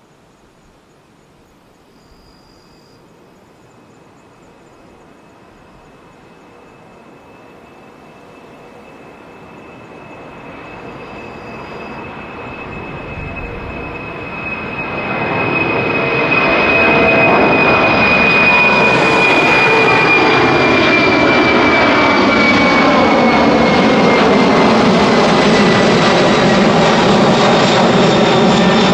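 Jet airliner's engines at takeoff thrust, rising from faint to a loud steady roar over about fifteen seconds, with a high whine that slowly falls in pitch.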